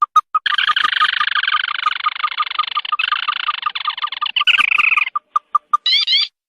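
Recorded crake (burung tikusan) calls played as a hunting lure: a rapid series of clipped notes, about five a second, then a dense rattling chorus from about half a second to five seconds in, ending in a few short rising notes.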